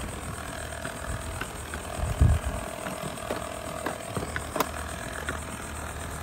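Robot vacuums running with a steady motor whine and hum, over scattered clicks of cereal and parts knocking. There is a single heavier thump about two seconds in and a sharp click a couple of seconds later.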